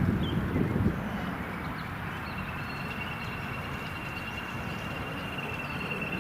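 Jet airliner engines overhead: a steady roar with a thin high whine that comes in about one and a half seconds in and holds. Low gusts of wind buffet the microphone during the first second.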